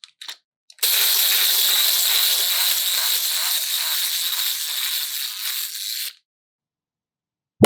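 A steady hiss starts about a second in, eases off slightly and stops abruptly after about five seconds. A loud sharp crack comes at the very end.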